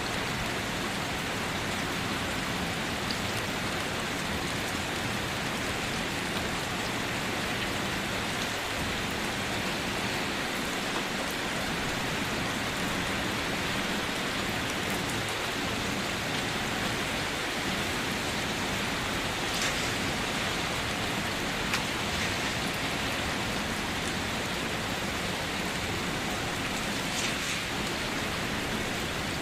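Steady, even rainfall pattering on surfaces, with a few sharper single drops standing out now and then.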